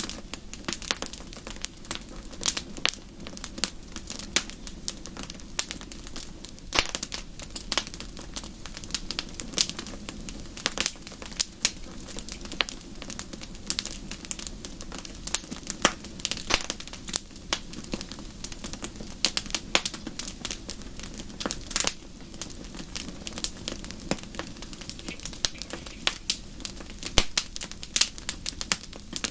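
Wood fire crackling in a fireplace: a dense, irregular run of sharp snaps and pops over a steady low rush of flame.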